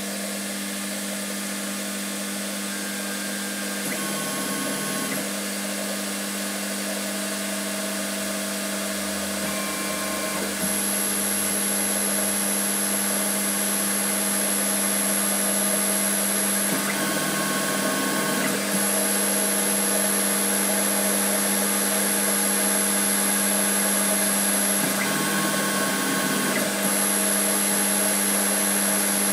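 Holzmann ED 400FD lathe, converted to CNC, running steadily with a constant motor hum. Short whining tones come and go about four times, and a high thin whine sets in about a third of the way through as it grows slightly louder.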